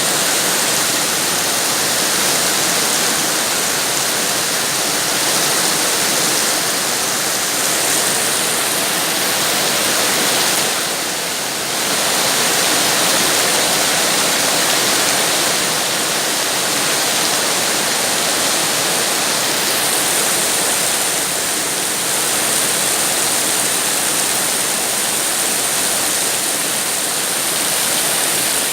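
Heavy, steady rain, a dense even hiss, easing briefly about eleven seconds in.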